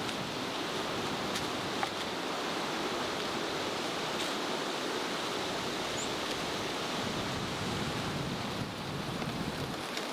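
Steady wind blowing across open country, a continuous even rush with a few faint clicks and one brief high chirp about six seconds in.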